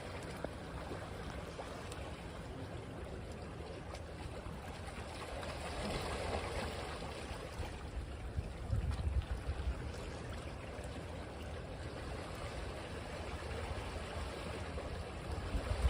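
Ocean waves washing on a beach: a steady wash of water that swells about six to nine seconds in, with a low rumble as a wave comes in.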